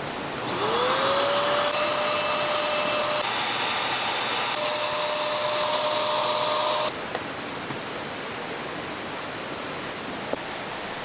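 A small electric motor spins up with a rising whine, runs steadily for about six seconds and cuts off suddenly, over the steady rush of a fast-flowing stream.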